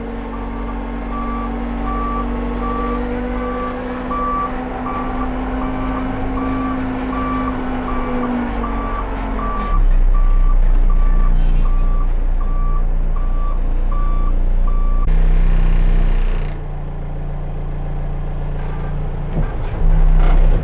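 Case 580 Super L backhoe loader's diesel engine running while its reverse alarm beeps steadily, a little more than one beep a second, stopping about three-quarters of the way through. The engine note drops about nine seconds in and then runs louder and lower.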